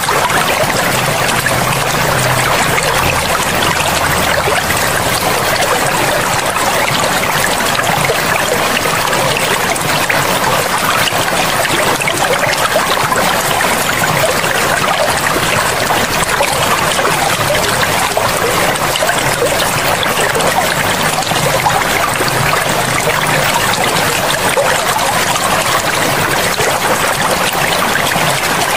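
River water flowing steadily, an even, unbroken sound of running water.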